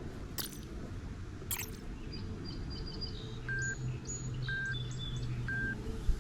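Wild birds chirping over a steady low outdoor rumble; one bird gives a short, clear whistle three times, about a second apart, in the middle of the stretch, among thinner high chirps.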